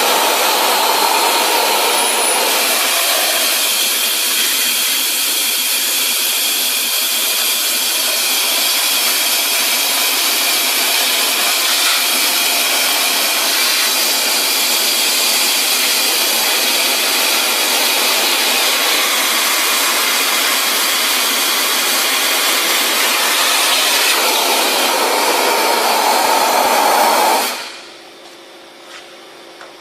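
Compressed-air wet/dry vacuum cleaner running: a loud, steady rush of air that cuts off suddenly near the end, leaving a quieter machine hum.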